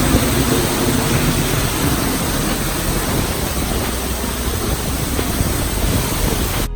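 Large waterfall: a loud, steady rush of falling water, close up.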